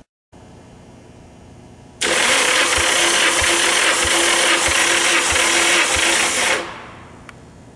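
Starter motor cranking a Nissan SR20DET turbocharged inline-four for a compression test. A steady whine carries a regular thump about every 0.6 s from the compression strokes. The cranking starts about two seconds in and cuts off after roughly four and a half seconds, followed by a faint click.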